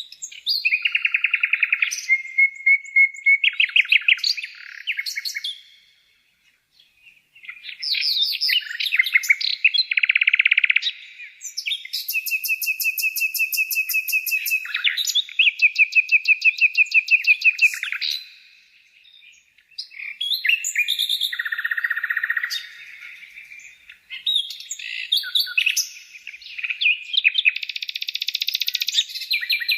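Songbirds singing: varied rapid chirps, trills and whistled notes in phrases, with short breaks about six and nineteen seconds in.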